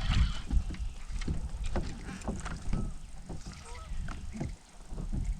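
Irregular knocks and bumps inside a small fishing boat, several a second, over a low rumble.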